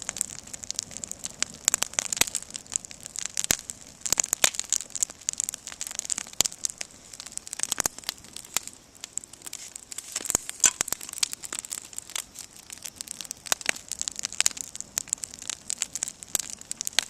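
Campfire burning, crackling and popping: a dense, irregular run of sharp snaps of varying loudness over a faint hiss.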